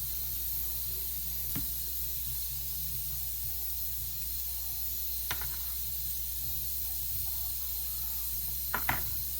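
Steady hiss with a low hum, broken by a few light clinks of tableware: one about a second and a half in, one about five seconds in, and a quick pair near the end.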